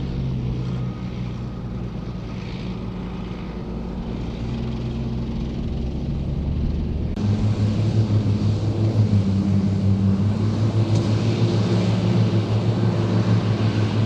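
Ford 8630 tractor's diesel engine running steadily with the Mengele SH40N forage harvester working. About halfway through, the sound abruptly becomes louder and closer.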